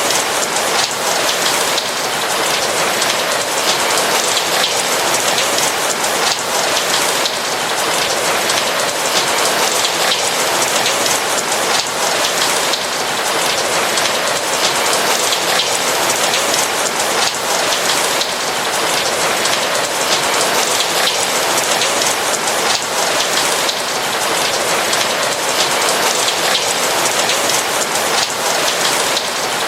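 Steady rain falling on a roof: a dense, even patter of raindrops at a constant level throughout.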